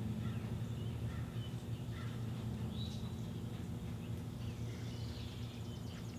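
Scattered bird chirps over a steady low hum.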